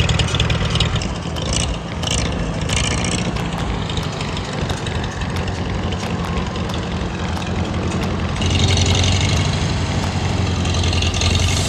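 Old Farmall tractor engine running, after its clogged fuel line has been blown clear; it gets louder and harsher about eight seconds in.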